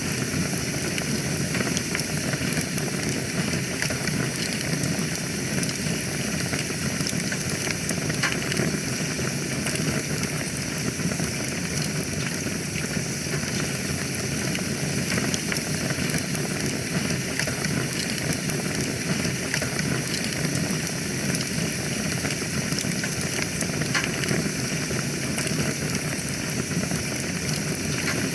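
Wood fire burning in a fireplace: a steady hiss and low rush of the flames with frequent small crackles and pops.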